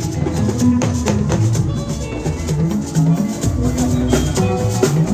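Dance music from a live party band: drums and shakers keep a beat over a moving bass line.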